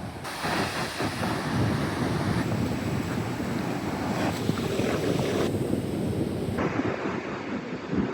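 Ocean surf breaking on a beach, a steady wash of waves, with wind rumbling on the microphone.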